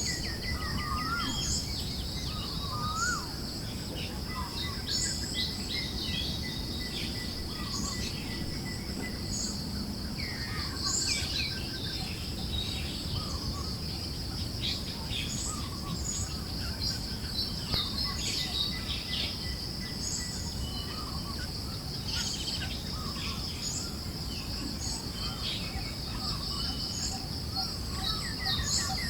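Forest ambience: many birds chirping and whistling in short calls over a steady high insect drone, with a soft low rush of wind beneath.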